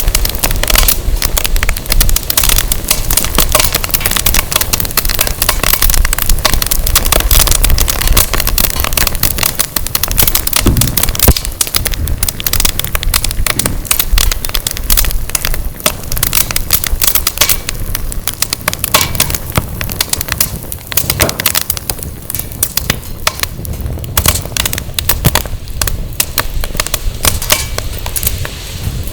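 Firewood burning in a fire pit, crackling and popping with a dense, irregular stream of snaps. A low rumble of wind on the microphone sits under it, heavier in the first few seconds.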